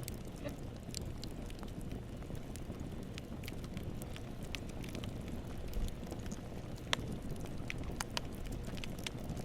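Wood campfire burning: a steady low rush with scattered sharp crackles and pops, one louder pop about seven seconds in.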